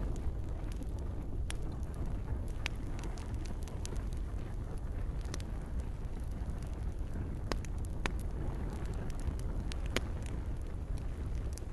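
Campfire crackling, with sharp pops scattered irregularly over a steady low rumble, and gentle rain hissing.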